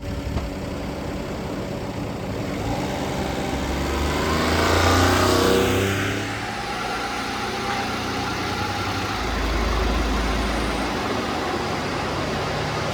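1994 Honda Acty kei truck's small three-cylinder engine running, revved once, rising in pitch about three seconds in and dropping back to a steady idle around six seconds, with a brief low rumble later on.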